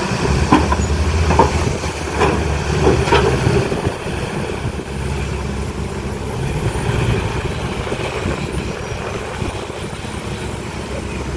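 A heavy diesel construction machine's engine runs steadily. A series of sharp metallic knocks and clanks comes in the first few seconds, then the sound settles to a steady engine noise.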